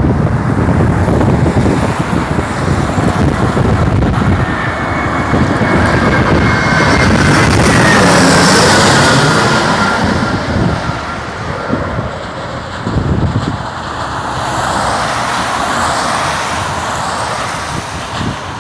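Jet airliner on final approach passing close overhead. Its engine whine falls in pitch as it goes by, loudest about eight seconds in, then fades to a hiss. Wind buffets the microphone with a low rumble, heaviest in the first half.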